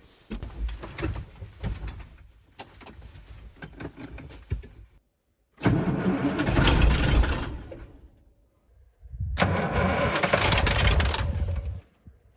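1985 KAMAZ 4310's V8 diesel being cranked in three attempts with short pauses between them, sputtering and not catching. It is a hard cold start at −5°C, which the owner puts down to summer diesel still in the tank.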